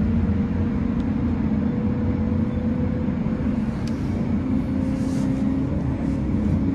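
Tram running between stops, heard from inside: a steady low rumble of the wheels on the rails with a steady electric motor hum. There are a couple of faint clicks, one about a second in and one near the middle.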